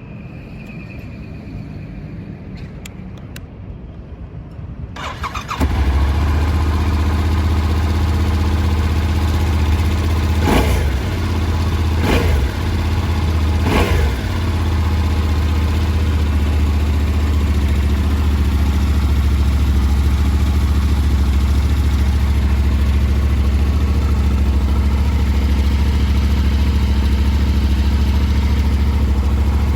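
Yamaha Ténéré 700's 689 cc parallel-twin engine, fitted with a Power Box exhaust header, started on the electric starter about five seconds in; it catches at once, is blipped three times in quick succession, then settles into a steady idle.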